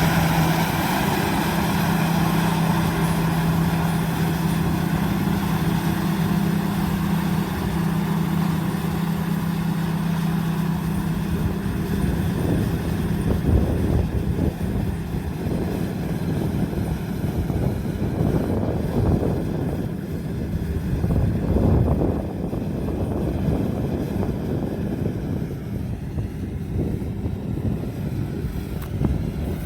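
Combine harvester running in the rice field, its engine and machinery giving a steady drone. A strong steady hum drops away about twelve seconds in, leaving a rougher rumble with louder surges around the middle and two-thirds of the way through.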